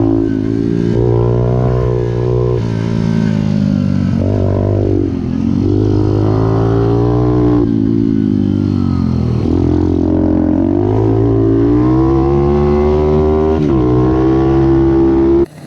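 Pit bike's small single-cylinder engine racing hard, its pitch climbing and dropping back several times as it revs up and eases off. The sound cuts off abruptly near the end.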